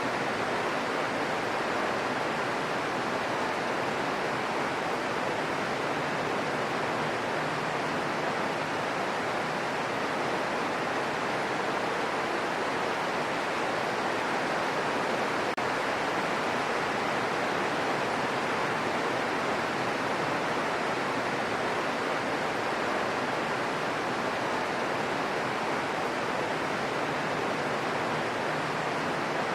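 Gentle rain falling steadily: an even hiss with no separate drops standing out.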